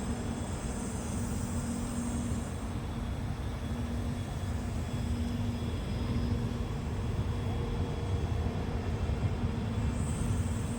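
Express passenger train running along the track with a steady low rumble of wheels and rails, and a faint hum on top.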